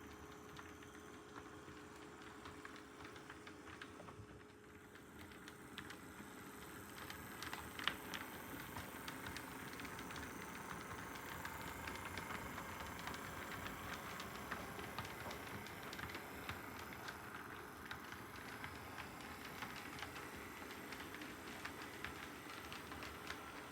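Model train running on layout track: a steady motor hum under rapid fine clicking from the wheels on the rails, growing louder about six seconds in.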